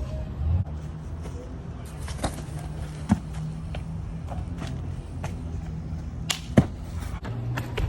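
Scattered sharp knocks and thuds from feet landing on a boat's deck, the two loudest about three seconds in and near six and a half seconds, over a steady low rumble.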